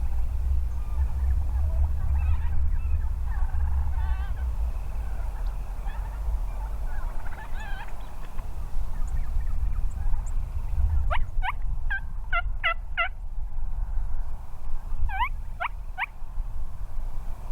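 Merriam's wild turkeys calling: faint rattling gobbles, then a quick run of about eight sharp yelp-like notes past the middle and three more near the end, over a steady low rumble.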